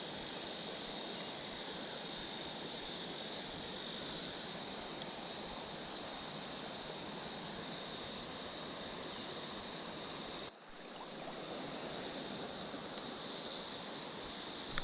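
Steady rush of creek water over rocks, with a continuous high-pitched drone of summer insects over it. The sound drops out sharply for a moment about ten and a half seconds in, then returns.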